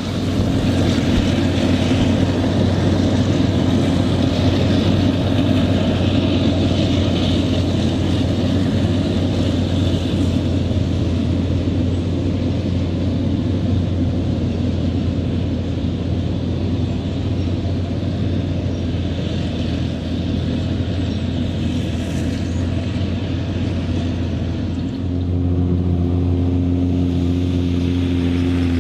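Heavy diesel farm machinery running steadily with a deep drone and a rushing noise over it. About 25 s in the rushing fades and the engine settles to a steadier, even hum.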